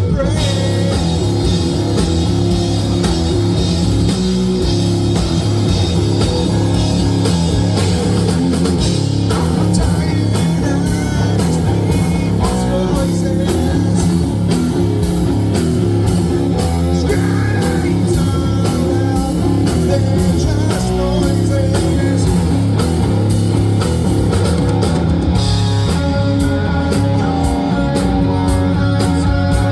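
Live rock band performance: distorted electric guitars, bass and a drum kit playing loudly, with some singing, captured through the room's PA.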